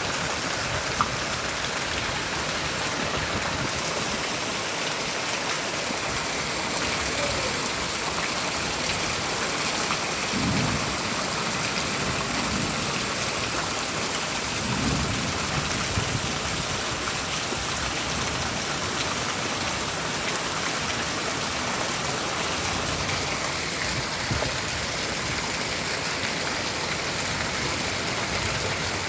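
Steady rain falling, with two low rumbles of thunder about ten and fifteen seconds in.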